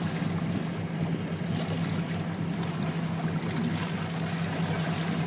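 Motorboat engine running at a steady drone, with water rushing along the hull.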